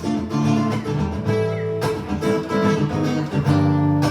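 Live acoustic guitar strumming chords between sung lines of a song.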